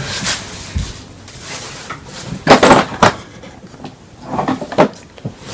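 Handling noises: a scatter of knocks and clatters as small objects, likely makeup items, are picked up and set down, with one low thump just under a second in.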